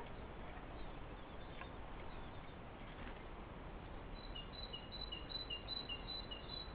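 A small songbird repeating a short, high two-note phrase about two to three times a second, beginning a little past halfway, over a steady low background hiss.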